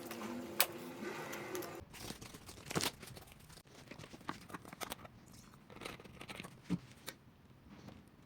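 Cardboard and paper being handled in crafting: scattered crinkles, scrapes and taps. A steady low hum stops abruptly about two seconds in.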